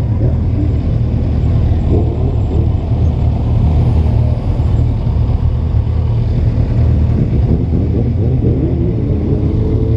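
Motorcycle engine running with a steady low rumble of traffic, heard from the bike, with engine notes wavering in pitch and a rising note near the end.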